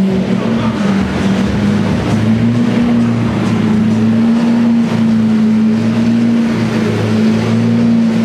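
Car engine running loud and close at a steady raised idle, holding one even note.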